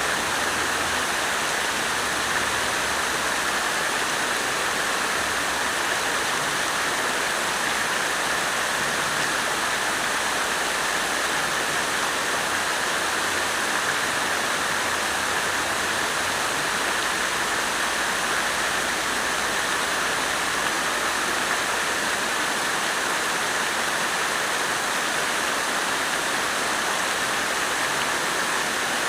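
Water splashing steadily from a garden fountain into its basin, an even splashing rush with no breaks.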